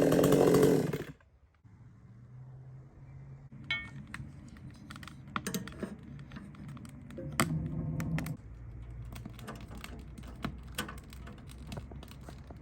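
Supmix 54cc clone two-stroke chainsaw running at speed, which cuts off suddenly about a second in. After that come scattered light clicks and taps over a low steady hum.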